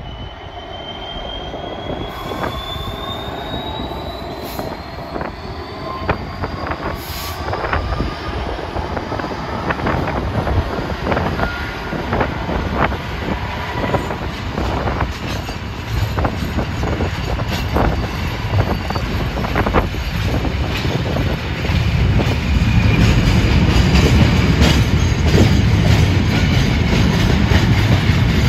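Train running along the track and drawing closer: a high wheel squeal rises in pitch over the first few seconds, over a run of sharp clicks from wheels on the rail joints, while a low rumble builds, loudest near the end.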